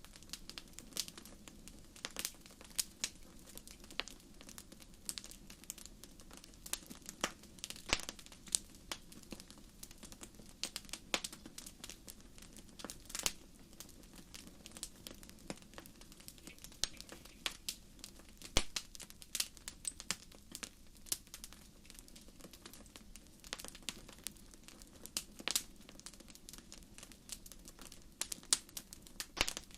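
Wood fire crackling, with irregular sharp pops and snaps, one especially loud a little past halfway, over a steady low hum.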